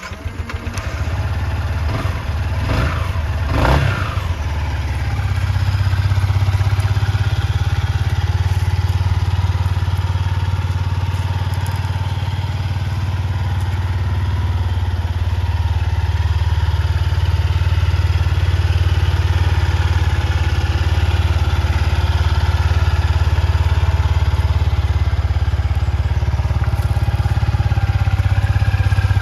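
Yamaha XSR125's single-cylinder four-stroke engine starting, revved twice a few seconds in, then idling steadily.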